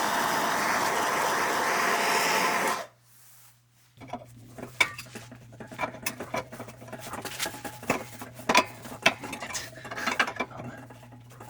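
A loud, steady rushing noise cuts off suddenly about three seconds in. After a short silence come irregular light metal clicks and clinks of tools working on the air-compressor pump's pulley, over a low hum.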